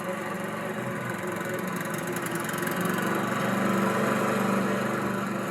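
Lawnmower engine running steadily, growing a little louder past the middle.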